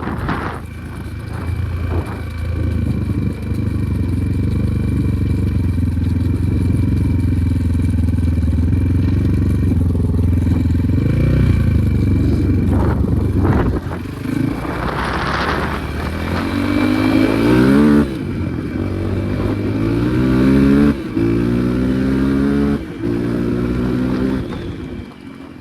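Enduro motorcycle engine running steadily under throttle. In the last third it accelerates repeatedly, its pitch climbing and then dropping back several times as it goes through the gears.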